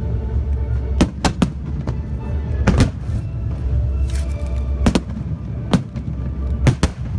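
Aerial firework shells bursting in sharp bangs, about nine at uneven intervals, some in quick pairs, over a steady low rumble and background music.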